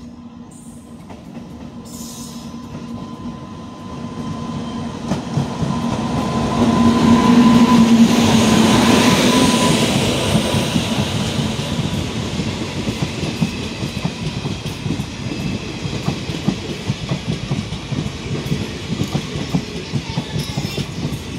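Indian Railways electric locomotive and passenger coaches pulling into a station: a hum and rumble that grows louder and peaks about seven to ten seconds in as the locomotive passes. After that comes the steady clickety-clack of coach wheels over the rail joints.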